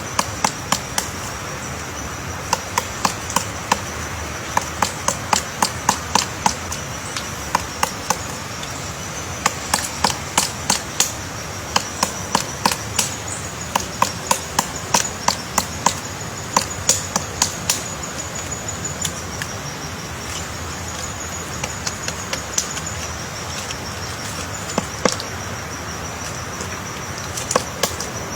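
A woodpecker pecking into wood while excavating its nest cavity: sharp knocks in runs of several a second, broken by short pauses.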